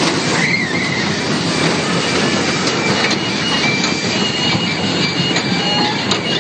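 Fairground ride machinery running with a steady loud rumble and clatter. Short high tones come and go over it.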